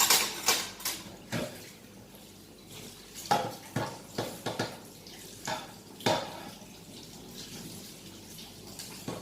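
Plates and cutlery clinking and knocking in a sink as they are washed, with a tap running faintly underneath. The clinks come irregularly, a cluster at the start and several more between about three and six seconds in.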